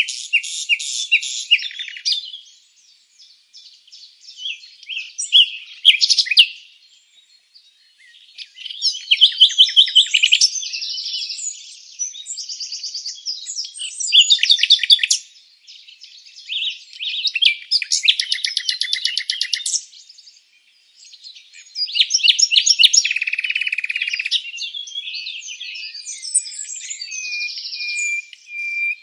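Songbird singing in varied phrases of rapid, high-pitched trills and chirps, with short pauses between phrases and a long, even whistled note near the end.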